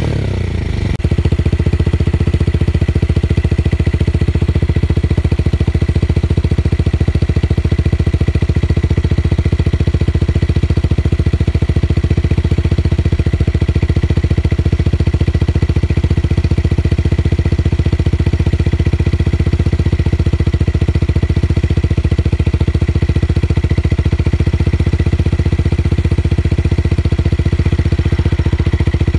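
Tuned motorcycle engine settling from a rev into a steady idle about a second in, with a deep bass exhaust note.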